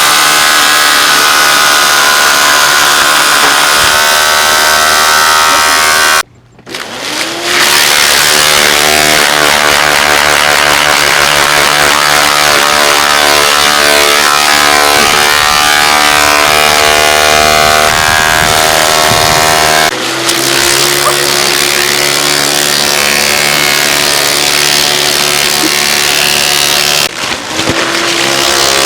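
Hoover Dimension Supreme vacuum cleaner motor running loud and steady, though it has lost its suction. About six seconds in it cuts out for a moment, then spins back up with a rising whine. Its note shifts briefly around twenty seconds in and again near the end.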